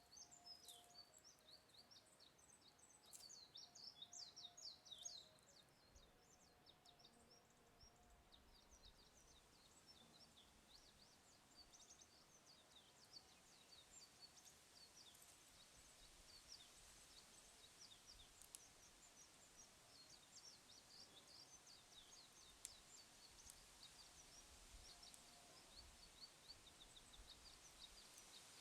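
Small birds twittering and chirping faintly, a dense burst of chatter in the first five seconds, then scattered chirps, with a couple of faint clicks later on.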